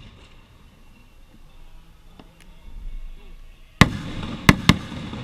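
Fireworks going off: three sharp bangs, the first about four seconds in and two more in quick succession about half a second later.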